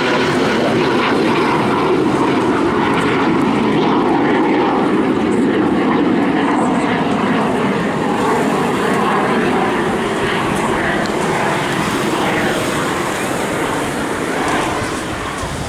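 BAC Strikemaster jet trainer, with its single Rolls-Royce Viper turbojet, flying a display pass. The jet noise is loud and steady, then eases slightly near the end.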